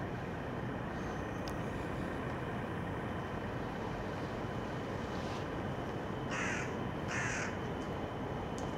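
A bird gives two short calls about six and a half and seven seconds in, over a steady rumble from the Shinkansen train approaching along the track.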